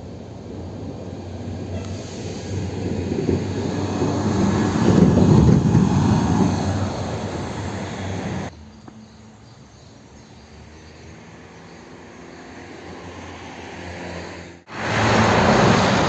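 A vehicle passing by: the sound builds to a loud peak about five seconds in, fades, then cuts off abruptly. A quieter, steady engine hum follows, and near the end a sudden loud rush of noise.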